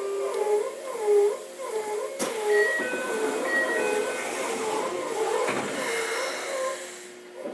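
Keikyu 600 series train's Toyo VVVF inverter whining in wavering, stepping tones as the train slows, with a sharp click about two seconds in. Near the end the running sound falls away to a steady hum as the train comes to a stop.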